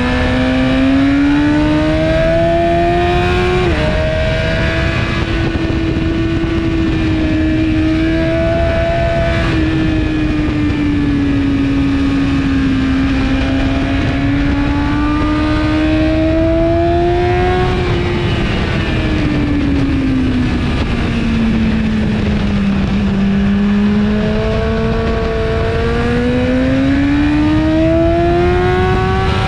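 BMW S1000RR inline-four engine through an Akrapovic exhaust at track pace, heard onboard with wind rush. Its pitch climbs and falls as the bike accelerates out of corners and rolls off into them, with a brief dip about four seconds in from an upshift and a long fall in the second half before it climbs again near the end.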